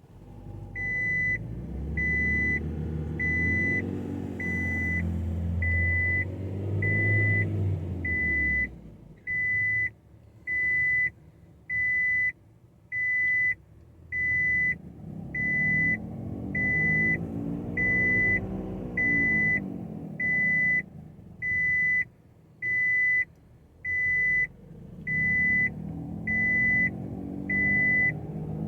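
Toyota Avensis III's 1.8 engine and CVT running with the car on stands, wheels spinning: a drivetrain hum that swells and falls in pitch three times as it speeds up and slows, the humming noise being traced. Over it, a repeating electronic warning beep sounds a little under once a second.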